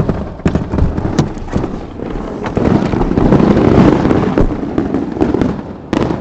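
Fireworks going off: a run of sharp pops and bangs, with a louder, denser stretch from about two and a half to four and a half seconds in.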